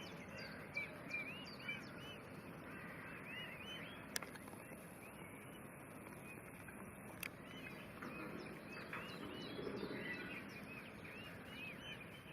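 Fischer's lovebirds chirping continuously: a busy stream of short, high, arched chirps over steady background noise. Two sharp clicks come about four and seven seconds in.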